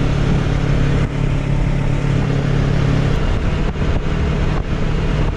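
Motorcycle engine running steadily at road speed, with wind and road noise rushing over the microphone; the engine note shifts slightly about three seconds in.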